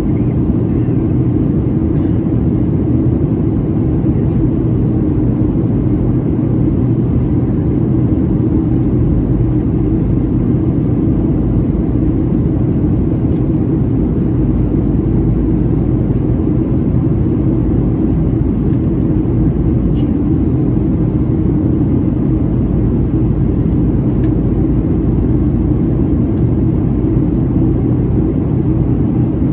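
Boeing 737-700 cabin noise during descent, heard from inside the cabin: a steady low drone of airflow and its CFM56-7B engines, holding at one level throughout.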